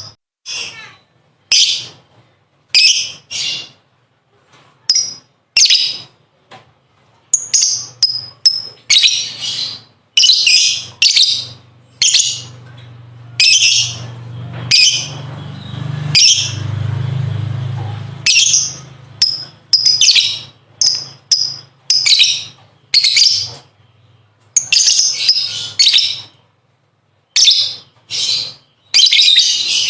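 Lovebird chattering in a fast series of short, high-pitched calls with brief gaps, some running together into longer bursts. This is the 'ngekek' song that is kept as a training recording for contest lovebirds. A low hum swells in the middle.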